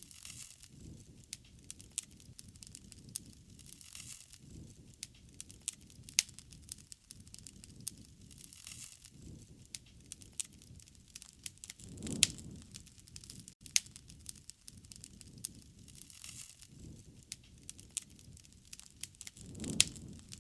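Wood fire burning: a steady crackle with sharp pops at irregular moments. Two louder low rushing swells come about twelve seconds in and again near the end.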